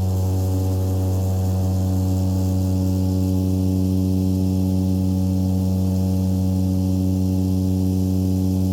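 DHC-6 Twin Otter 600's turboprop engines and propellers droning steadily: a deep, even hum made of several steady tones.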